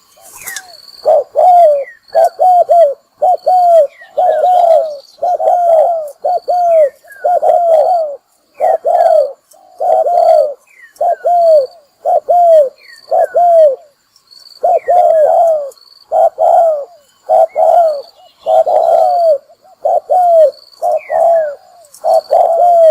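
Decoy spotted dove cooing over and over in quick, evenly repeated phrases of arched low coos. Short high falling chirps sound between the phrases.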